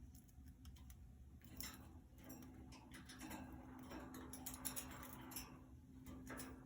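Faint, irregular light clicks and taps from budgies moving about in a cage, over a low steady hum.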